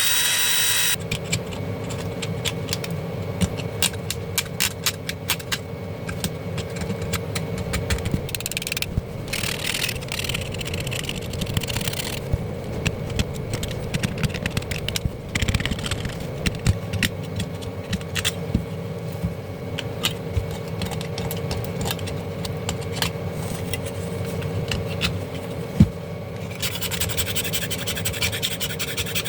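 A small electric drill or screwdriver runs and stops about a second in. Then comes a long stretch of scraping and frequent small clicks and rattles of tools on plastic and metal appliance parts, over a steady low hum.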